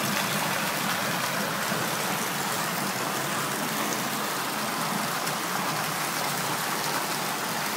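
Heavy, torrential rain pouring down steadily, with rushing floodwater running in the street.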